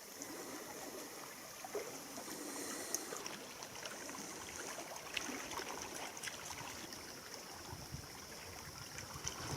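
Faint water lapping and trickling, with small irregular splashes and a steady soft high hiss behind it.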